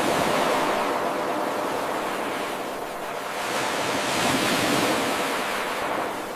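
Ocean waves washing on a shore, an even rushing surf that swells twice and eases off near the end. It is an eight-second wave recording played in a loop.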